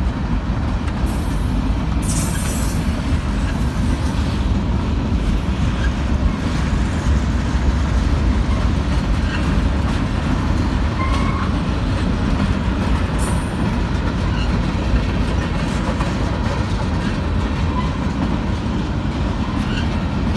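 Union Pacific freight train's cars (boxcars, a covered hopper, a gondola) rolling past: a steady heavy rumble of steel wheels on rail with occasional sharp clicks.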